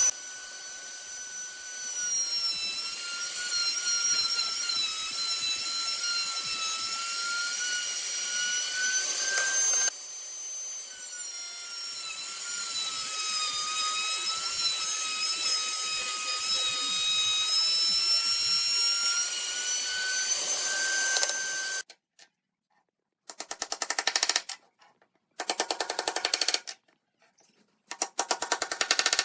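Electric power tool motor whining at high speed, its pitch sagging and recovering as it works the wood, in two long stretches. It stops about three-quarters of the way through and is followed by three short bursts of rapid clicking.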